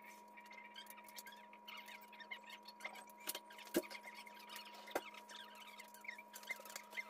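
Wood fire of kindling and split logs crackling in a fireplace: a faint, irregular patter of small pops with two louder snaps near the middle, over a steady low hum.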